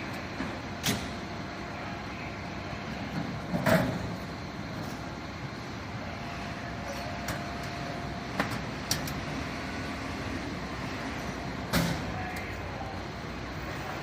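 Fire truck engine idling steadily, with several sharp knocks and clunks, the loudest about four seconds in.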